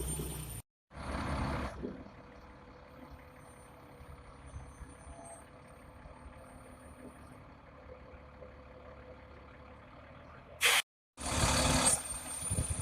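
Vehicle and machinery noise in several short clips, broken by two abrupt dropouts. Loud passages at the start and end frame a long quieter stretch with a faint steady hum.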